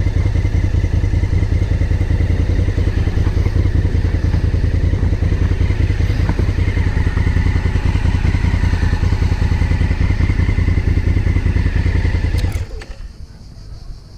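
Honda Africa Twin's parallel-twin engine idling steadily with an even low pulse, then switched off about 12.5 seconds in with a click, the sound cutting out sharply.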